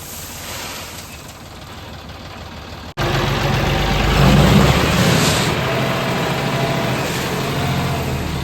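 Tractor engine running: faint for the first three seconds, then, after a sudden cut, loud and close, swelling briefly about a second later before settling into a steady run.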